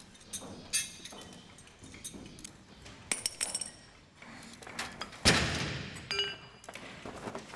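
A few small clinks and knocks, then a sharp crash about five seconds in that fades over about a second with a brief ringing, like glass or a hard object being struck or smashed.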